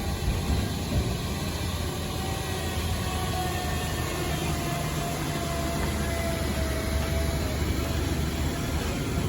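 Heavy truck engine running steadily at low revs, with a faint whine that slowly falls in pitch through the middle.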